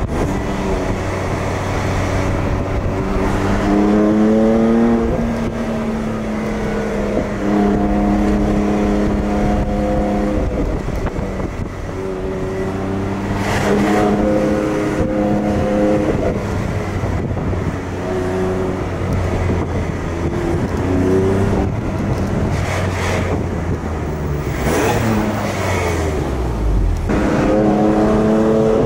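BMW M4 GTS's twin-turbo inline-six heard from inside the cabin while driving, its note rising in pitch several times as the car accelerates and holding steadier in between.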